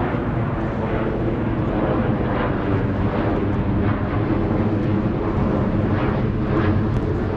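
Steady low engine rumble with a wash of noise over it.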